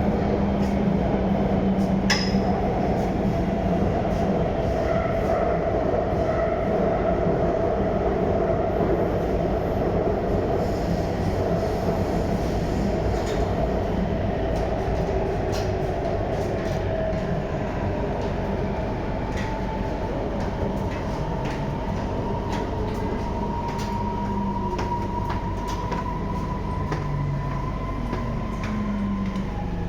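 Shenzhen Metro Line 11 train running at speed between stations, heard from inside the car: a steady rumble of wheels on rail with occasional clicks. A faint whine slowly rises in pitch in the second half.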